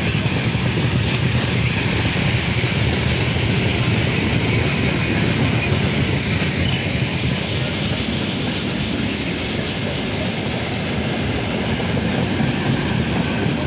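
Freight train's gondola wagons and tank cars rolling past close by: a steady, loud rumble of steel wheels on the rails.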